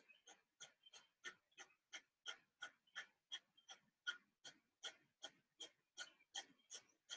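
Kapalabhati breathing: a person's short, forceful exhales through the nose, repeated in an even rhythm of about three a second, each a brief faint puff of air with a passive inhale between.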